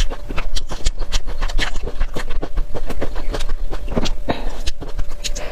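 Chewing picked up by a lapel microphone close to the mouth: a rapid, irregular run of mouth clicks and smacks, several a second.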